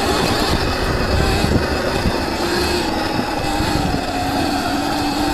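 Viper S electric dirt bike's motor whining steadily under load while climbing a rough, rocky hill, its pitch sagging slightly, over a dense low rumble from the ride.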